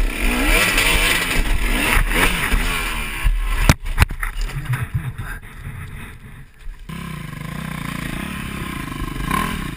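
Dirt bike engine revving hard, its pitch sweeping up and down, with a few sharp knocks about four seconds in. About seven seconds in the sound cuts abruptly to a steadier, quieter engine note.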